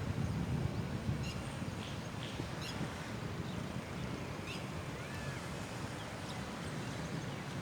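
Steady hiss of rain outdoors, with a few short bird calls through it, about four in all.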